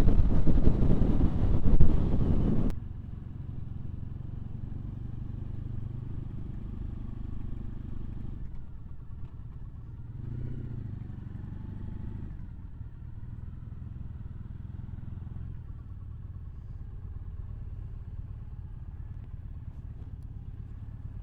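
Motorcycle on the move with heavy wind noise on the microphone, cutting off abruptly about three seconds in to a quieter, steady low motorcycle engine sound that rises slightly near the middle.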